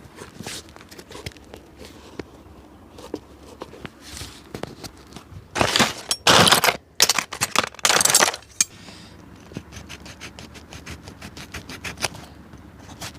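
Handwork on a shoe during sole repair: a few light clicks, then several loud scraping strokes about halfway through, followed by a fast run of light ticks.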